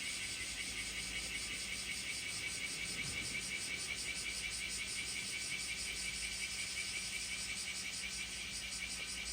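Cicadas buzzing in a steady summer chorus, a fast, even pulsing hum, over a low rumble.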